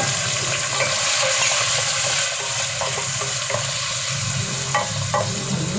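Chopped garlic frying in hot olive oil in a pan: a steady sizzle, with a couple of sharp clicks near the end.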